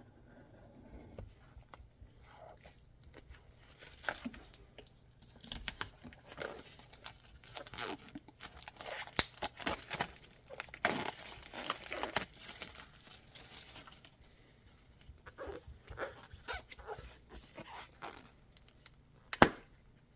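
Earphone packaging being opened by hand: crinkling, tearing and scraping of wrap and cardboard in a run of short handling noises, busiest in the middle, with one sharp click near the end.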